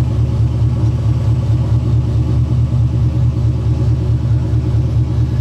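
2004 GMC Sierra 1500's GM rebuilt engine idling steadily through its aftermarket exhaust, a smooth, even low rumble heard from beneath the truck. It runs quiet, with no knocking, rattling or tapping.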